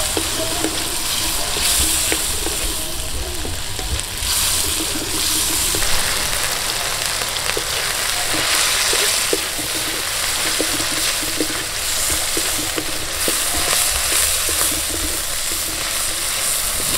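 Aloe vera gel cubes and tempe sizzling in a hot wok while a wooden spatula stirs and scrapes them, with frequent light clicks over the steady hiss.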